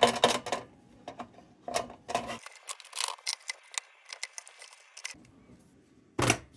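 Light, scattered clicks and taps of small metal lantern parts being handled during reassembly, with a louder knock near the end.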